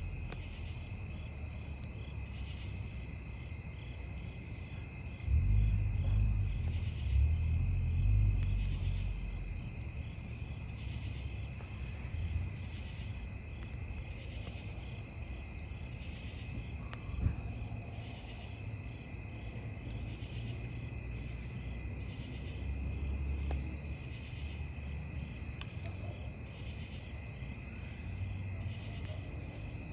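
Crickets chirping in a steady, evenly pulsing chorus over a burning wood campfire. The fire gives a low rumble that swells a couple of times, with a single sharp pop about two-thirds of the way through.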